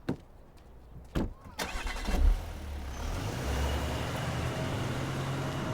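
Two short knocks, then a car engine starting about two seconds in and settling into a steady idle.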